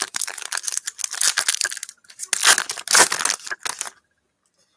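Foil trading-card pack wrapper being torn open and crinkled by hand, in two spells of crackling, the second louder.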